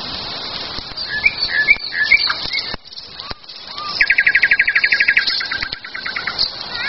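Wild songbirds singing: a few short chirping notes about a second in, then a fast, even trill about four seconds in that slows and fades near the end.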